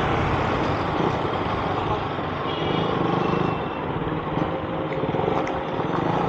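Motorcycle running on the road amid traffic noise, with a brief high tone about two and a half seconds in.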